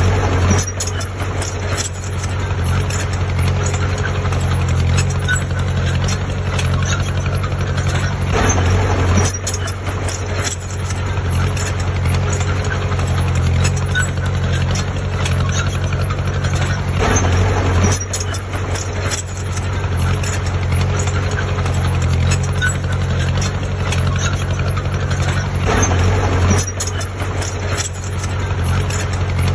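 Heavy diesel engine of construction machinery running steadily at a low, even pitch, with a few brief swells in level.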